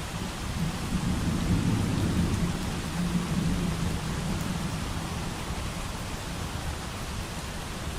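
Steady rain hiss with a low rumble of distant thunder that swells about a second in and dies away over the next few seconds.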